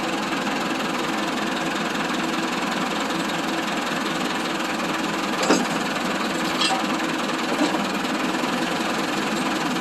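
Massey Ferguson 385 tractor's diesel engine running steadily, with three sharp knocks about halfway through, the first the loudest.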